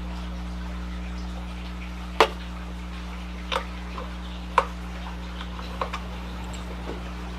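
Hand tools and metal parts clinking during mini bike disassembly: about seven sharp clicks scattered across several seconds, the loudest about two seconds in and again past four seconds. A steady low hum runs underneath.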